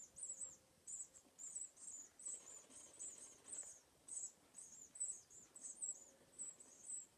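Nestling songbirds in the nest cheeping faintly: short, very high, thin calls repeating about three times a second, the begging calls of hungry chicks.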